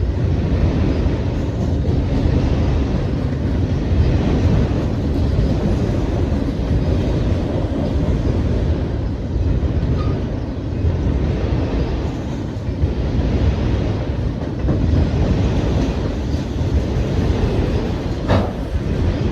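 A passing train's cars rumbling steadily over the rails, steel wheels on track. There is one short, sharp knock near the end.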